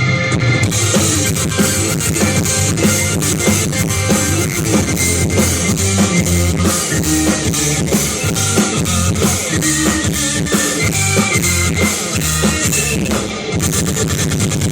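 Live rock band playing: a drum kit keeping a steady, driving beat under guitar.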